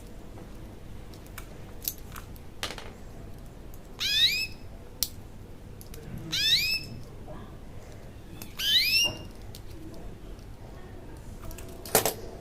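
A bird calling three times, about two seconds apart, each call a quick run of high notes that fall in pitch, with a few sharp clicks in between.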